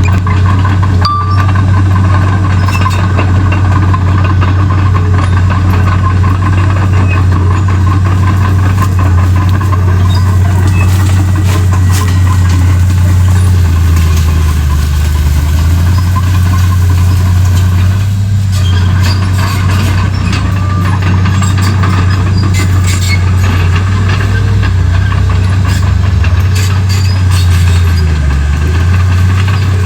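Komatsu D31P crawler bulldozer's diesel engine running loud and steady, its pitch sagging briefly about halfway through and again near the end.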